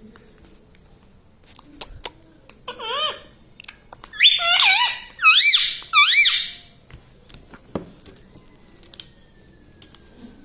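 Indian ring-necked parakeet giving four shrill calls that waver up and down in pitch: one about three seconds in, then three louder ones in quick succession. Light clicks and taps come between them.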